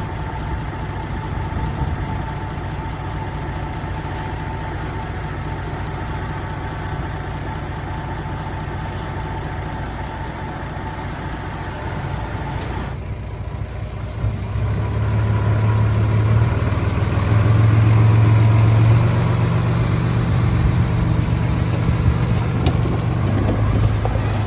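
Heavy diesel engine of earthmoving machinery running steadily, then louder with a stronger low hum from about halfway through.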